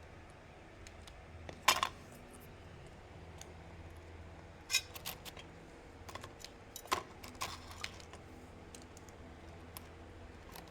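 Irregular sharp taps and light clinks of small hard objects. The loudest cluster is about two seconds in and a few more come around the middle, over a faint low steady hum.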